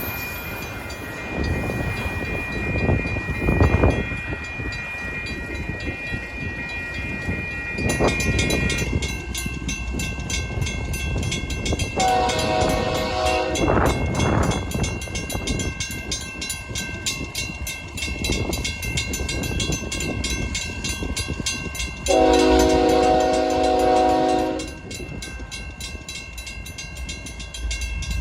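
Freight cars of a BNSF manifest train rolling slowly over tornado-damaged track, with a thin high wheel squeal for the first several seconds. A locomotive air horn sounds twice: a short blast about twelve seconds in and a longer, louder one about twenty-two seconds in.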